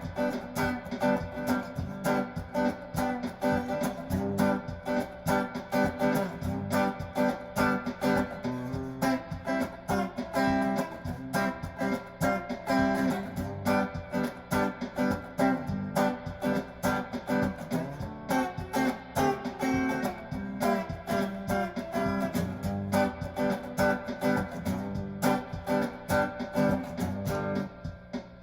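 Donner DTC 100 Telecaster-style electric guitar played through a tube amp over a looped backing drum beat with a steady rhythm.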